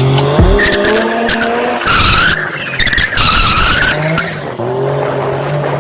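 Nissan Cefiro A31's swapped Toyota 1JZ inline-six revving up and down while the tyres squeal in a drift, with two long squeals about two and three seconds in.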